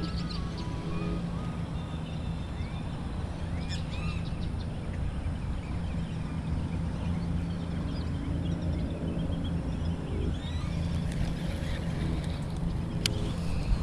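A steady low engine hum with no change in pitch, and birds chirping briefly over it.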